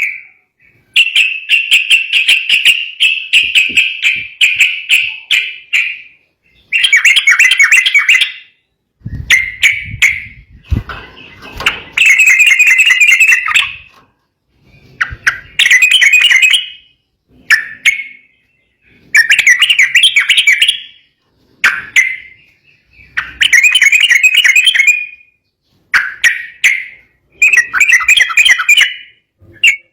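Sooty-headed bulbul (trucukan) singing an agitated song: a dozen or so bursts of rapid, chattering notes, each lasting one to two seconds, with short pauses between. This is the worked-up song used to provoke rival birds into answering.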